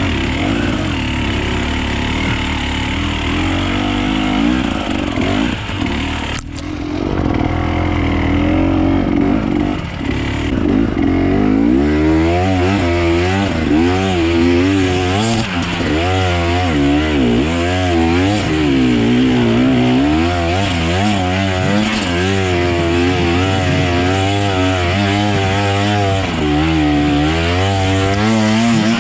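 Off-road enduro motorcycle engine being ridden, fairly steady at first, then revving up and down about once a second from roughly twelve seconds in as the throttle is worked.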